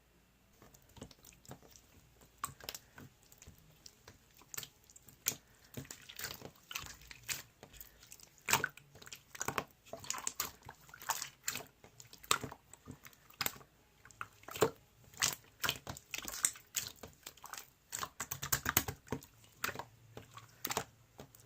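Clear slime being squished and poked by hand, giving an irregular run of sticky clicks and pops.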